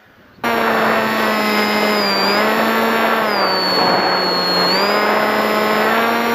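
A model aircraft's motor running at full power: a loud, steady whine with many overtones that cuts in abruptly about half a second in. Its pitch sags briefly in the middle, then comes back up.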